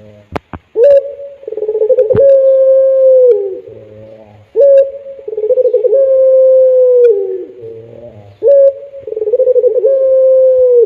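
Puter pelung dove cooing: three repeated calls, each a short rising note, then a rippling trill, then a long held note that falls away at its end. A few sharp clicks sound near the start and once about two seconds in.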